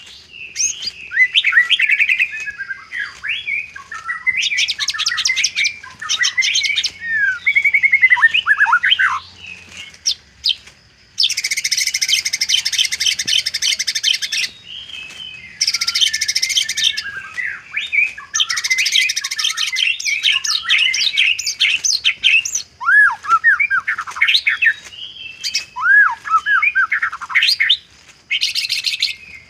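White-rumped shama (murai batu) singing a long, varied song: clear whistles and quick downward-slurred notes, alternating with harsh buzzing trills that run for one to three seconds at a time.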